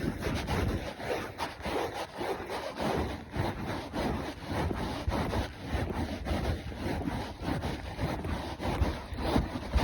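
Horse's hooves striking the ground in a steady rhythm of several knocks a second, heard from the saddle, with a rubbing, scraping noise under them.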